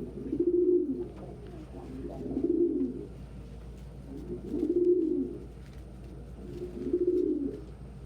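Domestic pigeon cooing: four low coos, each about a second long and rising then falling in pitch, about two seconds apart.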